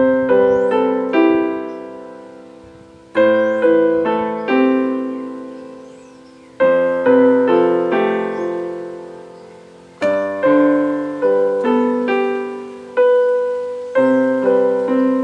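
Keyboard in a piano sound playing a chord progression as arpeggios, the third of each chord moved up an octave for a lighter, less muddy voicing. Five chords, one about every three to four seconds, each rolled upward in quick notes that ring and fade.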